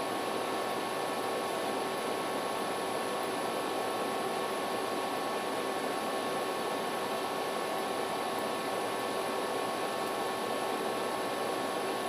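Steady, unchanging hiss with a faint hum of a few constant tones and no distinct events.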